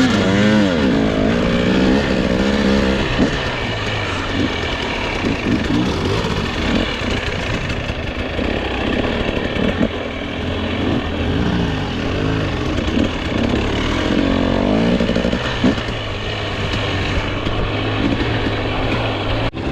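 Dirt bike engine running hard on a trail ride, its pitch rising and falling again and again as the throttle is worked on and off.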